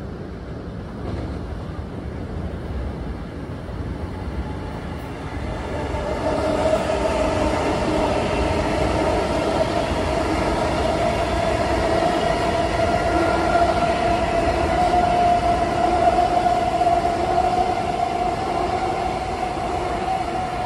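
Long Island Rail Road train going by, its rumble growing louder about six seconds in, with a steady whine over it.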